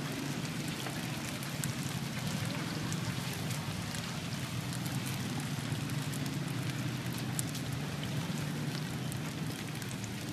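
Garlic-chive rice cakes shallow-frying in oil in a wide metal pan: a steady sizzle with scattered small crackles, over a low steady hum.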